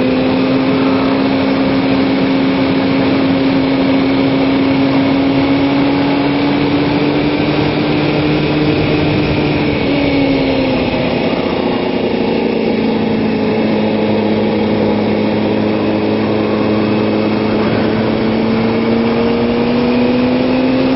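Kawasaki ZX-6R's inline-four engine running under steady throttle in fourth gear, with wind rush. About ten seconds in the revs drop as the throttle is rolled off, then build back up from about seventeen seconds.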